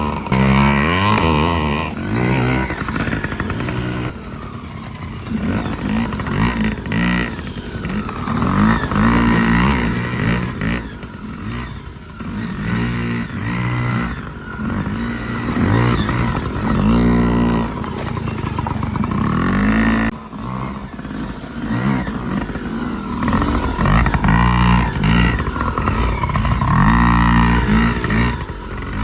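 Yamaha PW50 mini dirt bikes' small two-stroke engines, revving up and falling back again and again as they are ridden.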